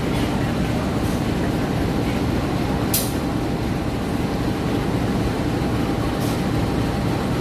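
Train rumbling steadily along the tracks through a station, with a brief sharp high-pitched sound about three seconds in and a fainter one near six seconds.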